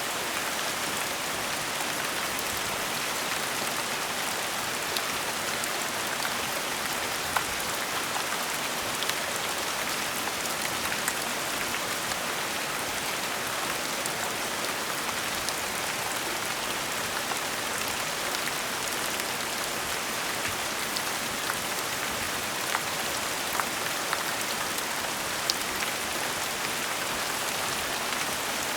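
Steady gentle rain: an even hiss of rainfall with scattered individual drops ticking now and then.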